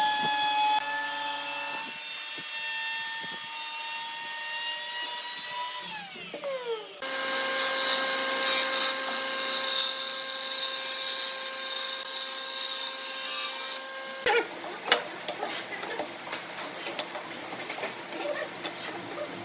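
Electric power tools working wood. A motor whine rises slightly in pitch, then winds down about six seconds in. A second tool runs steadily with a high whine and hiss until it cuts off suddenly near the fourteen-second mark, and light knocks and clicks follow.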